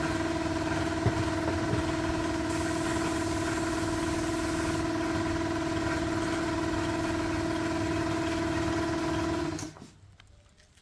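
The restored vintage car's engine running at a steady speed, a constant pitched hum over a low rumble, which cuts off abruptly near the end.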